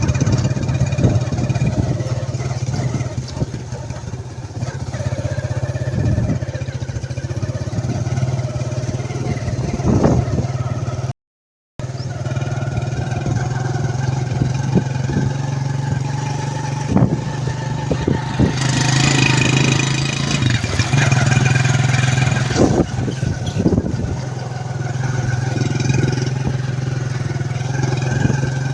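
An engine running steadily with a low, even hum; it cuts out completely for a moment about eleven seconds in.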